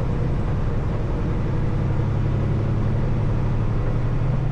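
Semi-truck's diesel engine running steadily, a low, even engine sound.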